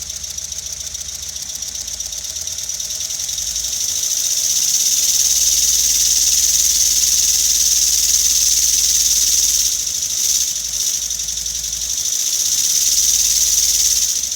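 LEGO pneumatic inline four-cylinder engine running on compressed air, a fast even clatter of its valves and pistons over a steady high air hiss. It speeds up and grows louder over the first few seconds and dips briefly around ten seconds in before picking up again. This is a test run before shipping, and the engine is running fine.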